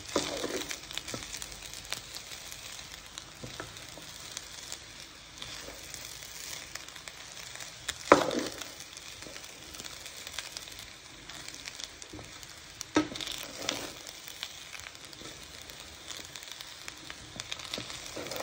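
Chicken fried rice sizzling in a hot pan as it is stirred, with the stirring utensil scraping and knocking against the pan now and then; the sharpest knock comes about eight seconds in.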